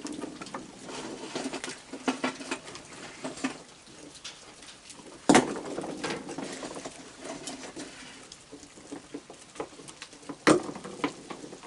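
A crowd of raccoons eating cookies: many small crunches, clicks and taps, with two sharp knocks, one about five seconds in and one near the end.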